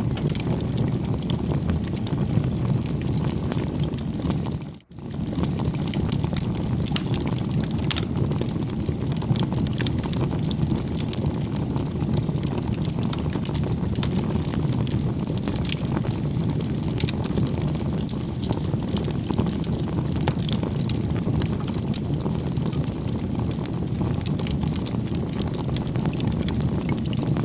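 Wood fire crackling, with scattered sharp pops over a steady low rushing noise. The sound drops out for a moment about five seconds in, then resumes.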